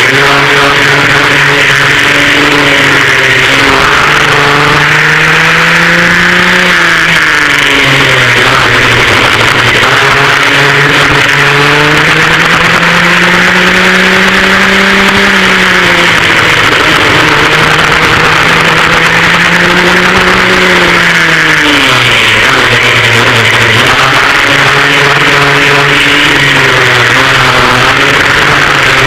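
Twin rear-mounted two-stroke engines of a vintage racing kart at full racing speed, heard onboard. The engine note climbs and falls several times as the kart accelerates and backs off, with a sharp drop about three-quarters of the way through before it holds at a lower, steadier pitch.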